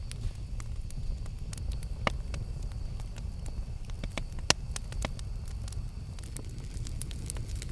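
Campfire crackling: scattered sharp pops and snaps of burning wood over a steady low rumble, the loudest pop about four and a half seconds in.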